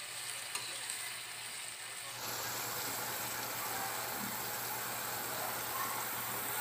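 Kangkong stalks and fried tofu sizzling in a wok with a little water just added: a steady hiss.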